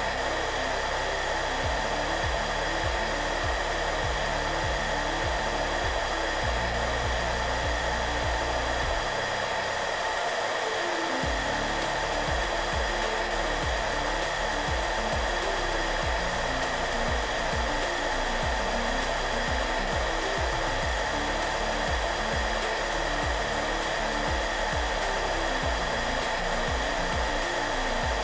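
Hair dryer running steadily, a constant rushing noise with a few steady whining tones, under soft background music with low notes that change.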